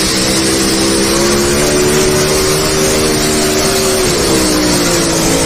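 A pulling vehicle's engine running at high revs under load while dragging the sled, its pitch holding steady, dipping about four seconds in, then climbing again near the end.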